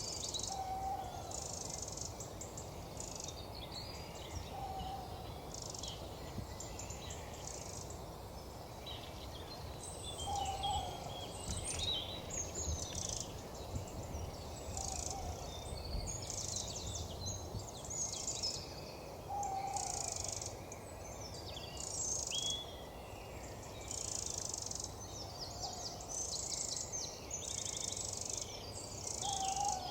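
An owl hooting, short calls a few seconds apart, against repeated high-pitched chirring bursts that come every second or two and are the loudest sound.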